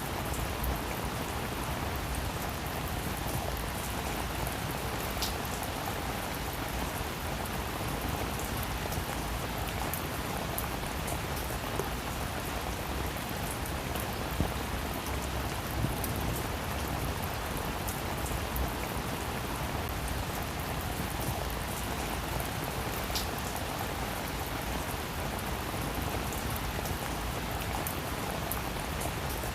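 Steady rain falling on a roof: an even, dense hiss with scattered sharp ticks of individual drops.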